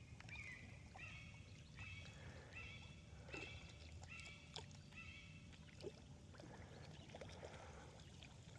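Faint animal calls: a short high call repeated about every two-thirds of a second, some seven times, over a low rumble of water.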